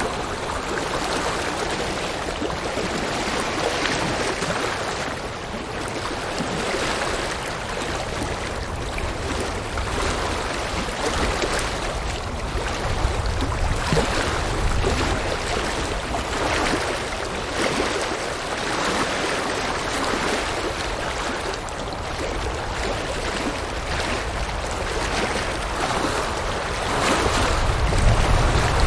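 River water rushing and splashing over rocks, a steady loud flow with irregular surges and a deeper low rumble swelling near the end.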